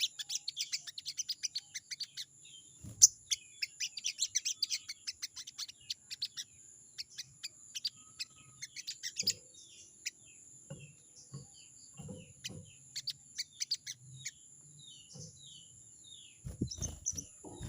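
Crested jay (sogon) giving its rapid rattling chatter, a fast run of sharp notes for several seconds that then breaks into sparser short down-slurred calls. This is the bird calling out to a rival. A few low thumps are also heard, the loudest about three seconds in.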